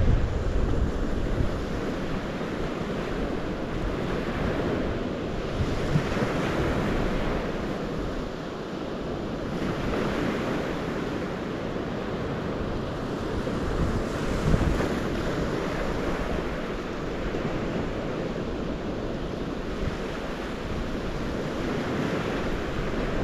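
Water rushing and washing in slow swells every few seconds, with wind gusting on the microphone.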